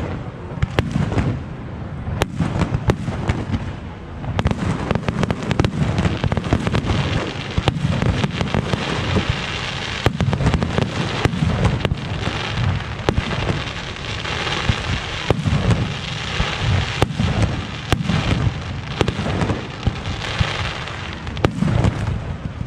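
Aerial fireworks display going off: a rapid, continuous run of bangs and booms with crackling bursts between them.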